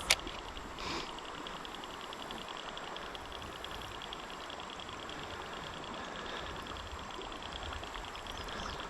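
River ambience: steady flowing-water hiss with a rapid, even high-pitched ticking throughout, and one sharp click right at the start.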